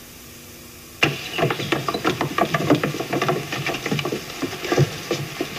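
Sudden clatter of many knocks and scrapes on wood, starting about a second in: a classroom of children getting up and moving wooden desks and chairs.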